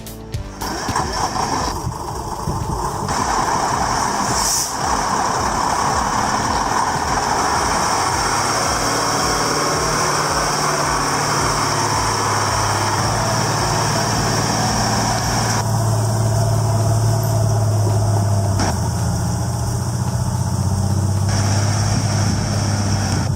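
Heavy off-road vehicle's engine running steadily under load in low gear, with a steady low drone that gets stronger from about the middle on.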